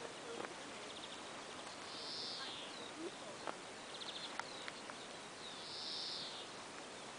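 A songbird singing: twice, a quick rattling trill followed by a short, hissy, buzzing note, with a few scattered faint chirps over a steady outdoor hiss.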